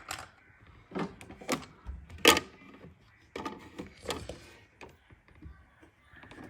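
A series of plastic clicks and knocks from a toy washing machine being handled, its door worked, with the loudest knock a little past two seconds in.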